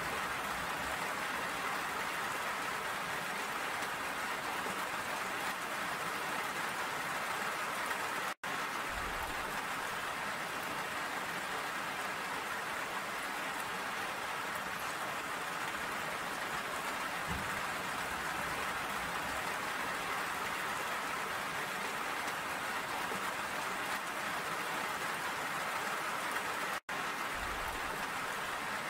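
Steady rain falling, an even hiss of drops with no change in strength. Twice the sound cuts out for an instant, about a third of the way in and near the end.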